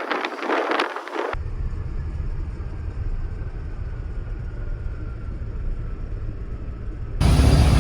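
Wind buffeting the microphone cuts off sharply about a second in, giving way to a steady low vehicle rumble. Near the end a much louder sound with heavy bass cuts in abruptly.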